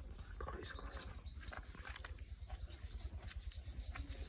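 A small bird chirping faintly: a quick run of short, falling chirps, about five a second, for the first two seconds or so, then only a few scattered chirps.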